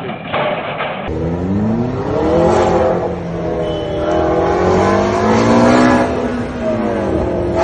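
A car engine revving, its pitch climbing and dropping back twice as the car accelerates and then eases off.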